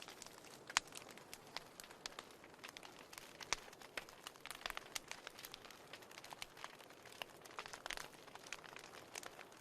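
Wood fire crackling in a fireplace, with irregular sharp pops and snaps over a faint hiss, a few of them louder than the rest.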